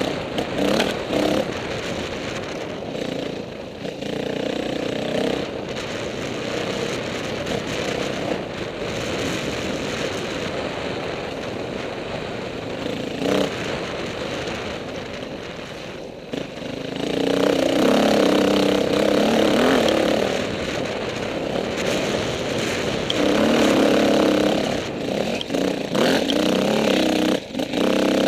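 KTM 450 dirt bike engine running under throttle while ridden, its pitch rising and falling with the revs. It gets much louder from about two-thirds of the way in, with repeated hard bursts of throttle.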